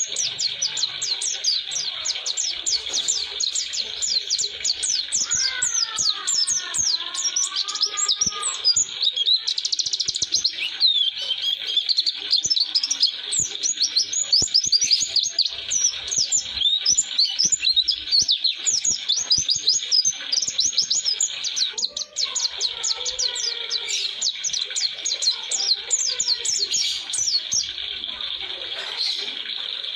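White-eye (pleci) singing a long, unbroken rolling song of rapid high twittering notes, thinning out near the end, over a steady high hiss. Lower wavering notes come in twice.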